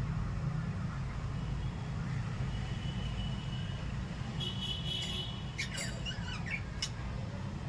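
Small pet parrots chirping and squawking in short high calls, mostly in the second half, over a steady low rumble.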